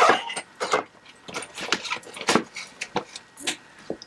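A string of irregular clicks and light clinks of small hard objects being handled.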